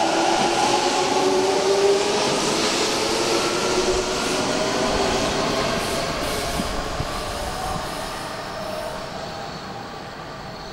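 Hanshin Railway electric train pulling away, its motor whine slowly rising in pitch as it speeds up, the running noise fading steadily as it moves off.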